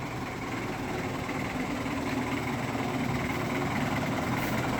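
An old car's engine running steadily, growing slowly louder.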